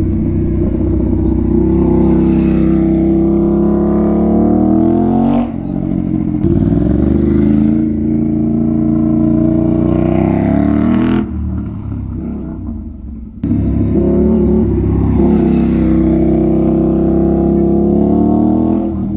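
Kawasaki Z900's inline-four engine through an SC Project exhaust, accelerating hard and revving up through the gears: the pitch climbs, drops sharply at an upshift about five seconds in, then climbs again. After a short quieter off-throttle lull in the middle, it pulls up in pitch once more.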